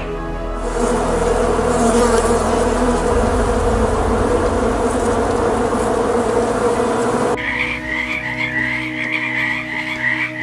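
Honeybees massed at the hive entrance, a dense steady buzzing of many wings. It cuts abruptly, about three-quarters of the way through, to a frog croaking in a continuous run of pulsed calls.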